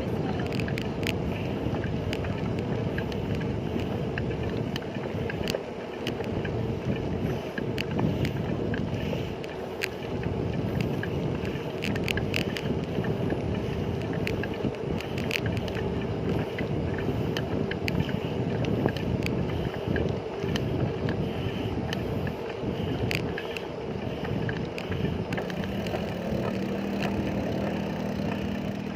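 Wind rushing over the microphone and road noise from a bicycle being ridden, with frequent small clicks and rattles.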